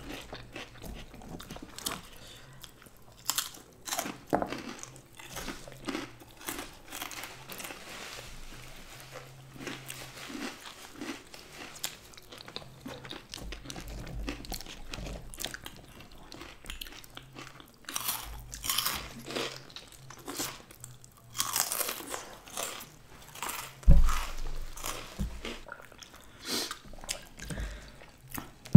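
Close-miked eating: irregular crisp crunching and chewing of Flamin' Hot Cheetos, with a louder thump about five seconds before the end.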